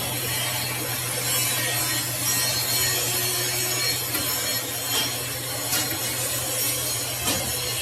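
A workshop machine cutting steel: a steady rasping cutting noise over a constant motor hum, with a few brief sharper scrapes.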